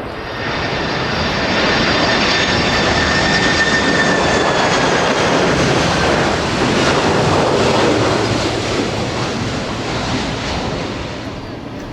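Jet airliner passing close, a rush of engine noise with a high whine that drops slightly in pitch as it goes by. It builds over the first couple of seconds and fades near the end.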